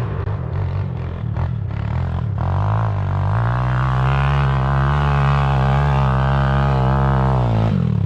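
Enduro dirt bike engine revving up and held at steady high revs for about four seconds, then dropping off sharply near the end.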